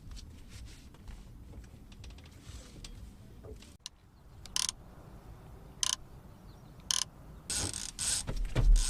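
Trolling reel's clicker ratcheting in three short bursts, then running continuously near the end as a fish strikes and pulls line off the reel.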